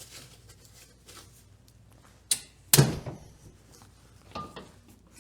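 Handling noises on a tractor: faint rustling, then a sharp click and a louder clunk about half a second apart near the middle.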